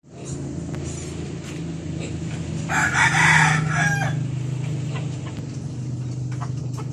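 A rooster crows once, about three seconds in, over a steady low hum.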